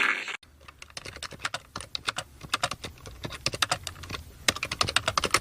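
Rapid, irregular clicking and tapping, several sharp clicks a second, starting just after a sudden cut.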